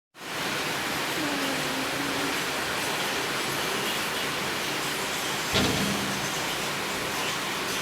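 Heavy rain falling steadily, a dense even hiss that cuts in at the start, with one brief louder knock a little past halfway.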